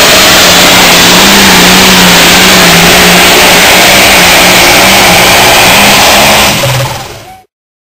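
A John Deere outlaw-class pulling tractor's high-horsepower diesel engine running flat out under load during a pull, very loud and steady. The sound falls away and cuts to silence about seven seconds in.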